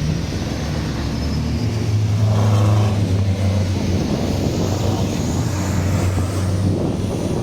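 Racing truck engine running at a low, steady pitch, swelling to its loudest about two and a half seconds in and then easing off, like a truck passing.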